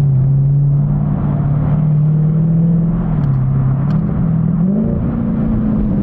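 A car engine running steadily while driving, its note shifting slightly and then climbing in pitch about two-thirds of the way through as it speeds up.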